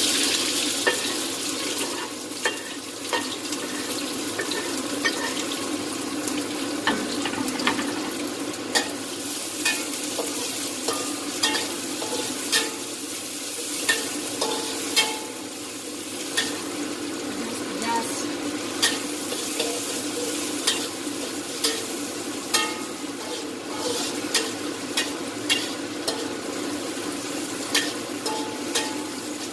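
Sliced chillies frying in hot oil in a steel wok, a steady sizzle that is loudest in the first second as they go in. A metal spatula stirs them, clinking and scraping against the wok about once a second.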